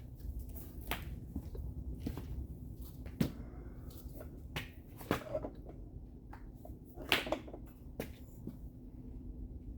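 Irregular light taps and clicks of hand tools working sheet metal, about one a second with a quick cluster near the end, over a low steady hum.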